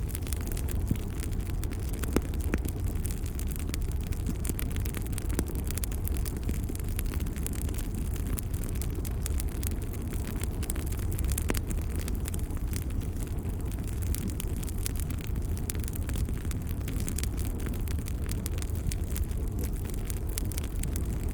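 Wood fire crackling, with frequent irregular small pops and snaps over a steady low rumble.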